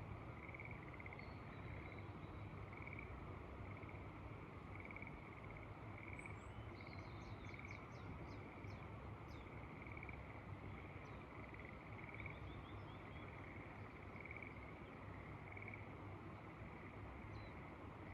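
A frog calling over and over in short pulses, roughly once a second, over a steady background hiss. About seven seconds in a bird gives a quick run of high descending notes, with a shorter run a few seconds later.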